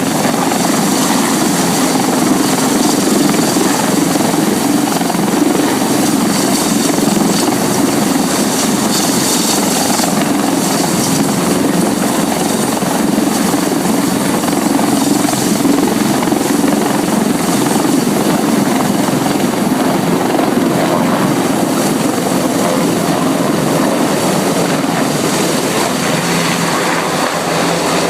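Helicopter engine and rotor running steadily: a loud, even noise with a low hum. A lower tone comes in near the end.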